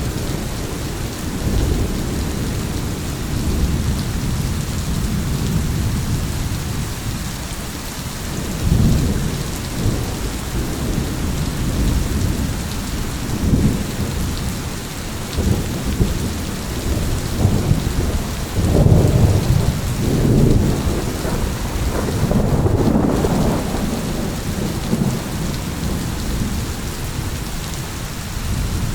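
Thunderstorm: steady heavy rain with low rolling thunder that swells and fades several times, strongest about two-thirds of the way through.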